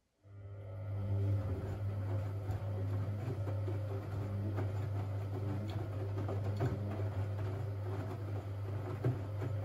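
Siemens Siwamat 6143 washing machine during a boil wash: a click, then a steady low mains-pitched hum starts and keeps running, with scattered light knocks and clicks over it.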